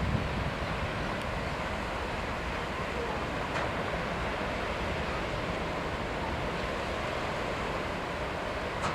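Steady wind buffeting the microphone, mixed with the wash of waves.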